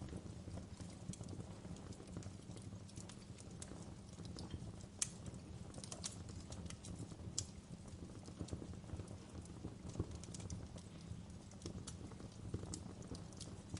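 Wood fire crackling in a fireplace: irregular sharp pops and snaps over a steady low rumble of burning, with a few louder pops about five, seven and ten seconds in.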